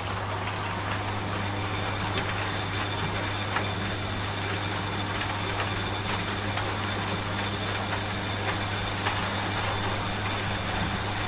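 Washing machine running with a steady low motor hum and a faint high whine, over a continuous patter of rain.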